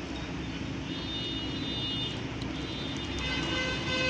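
Excavator's diesel engine running steadily, with a steady high-pitched tone of several notes coming in about three seconds in and getting louder toward the end.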